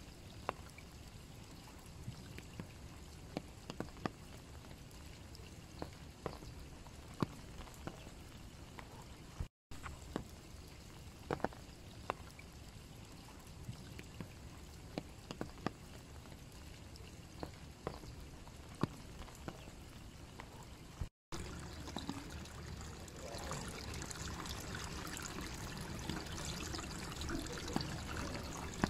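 Steady light rain with scattered individual drops dripping and pattering onto surfaces. The sound cuts out briefly twice. After the second gap a denser, louder rush of rain and running water takes over.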